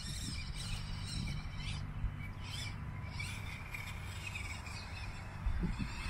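Birds chirping and calling over a low, steady rumble, with a few low knocks near the end.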